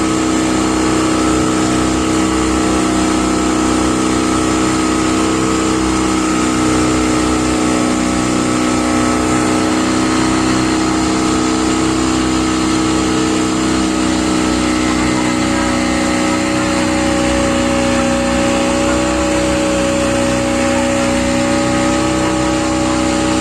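Speedboat's outboard engine running steadily at an even speed, with a constant hum and a slight rise in pitch about two-thirds of the way through.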